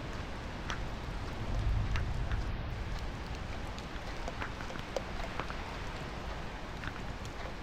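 Light rain falling, a steady hiss with individual drops ticking sharply at irregular moments. A low rumble swells briefly about two seconds in.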